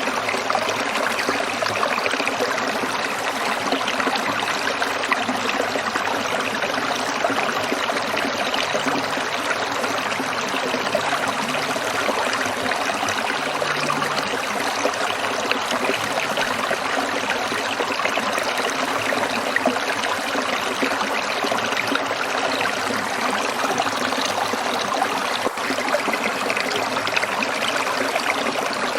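Stream water trickling and splashing over rocks, a steady babbling rush without pause.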